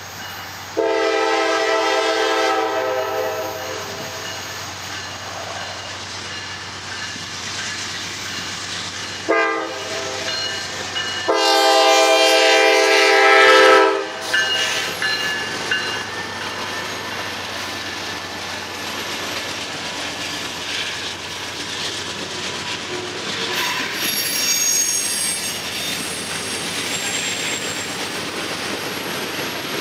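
Norfolk Southern freight train's locomotive horn sounding for the grade crossing: a long blast about a second in, a short blast, then another long blast as the locomotives reach the crossing. The locomotives and freight cars then roll steadily past, with a brief high wheel squeal later on.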